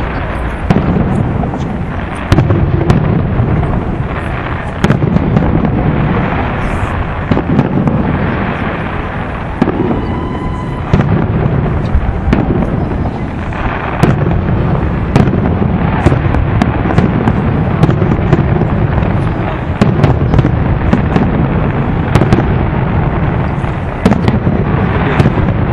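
Aerial fireworks display: shells bursting one after another every second or two in deep, rolling booms, with many sharp crackles and pops among them.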